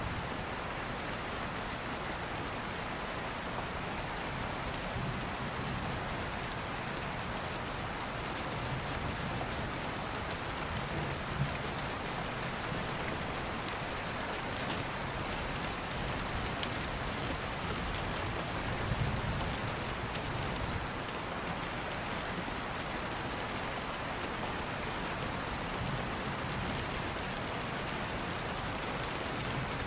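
Steady heavy rain with low rumbles of thunder rising and fading every several seconds, and a few sharp clicks.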